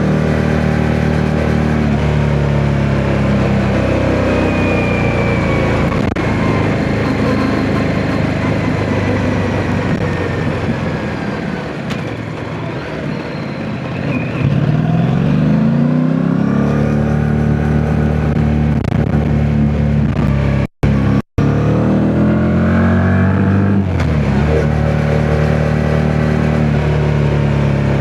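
Yamaha MT-07's parallel-twin engine under way while riding, with wind rushing over the helmet microphone. The revs drop off toward the middle, then climb sharply about halfway and again a little past two-thirds in, with the sound cutting out twice very briefly just before that second climb.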